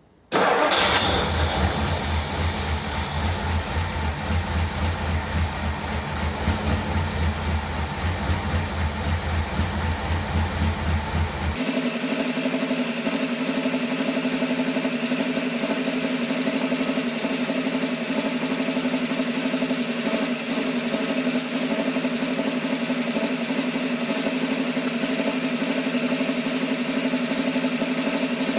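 A 1957 Ford Thunderbird's V8 engine is started about half a second in and keeps running at idle. It is running on its carburettor with both idle mixture screws three and a half turns out, on fouled plugs, and the owner is not happy with how it runs. About eleven seconds in the sound changes abruptly to a steadier, even idle.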